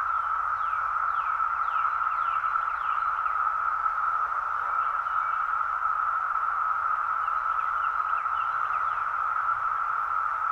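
Chorus of Brood X periodical cicadas, a steady, unbroken drone. A few short falling chirps sound over it in the first few seconds and again near the end.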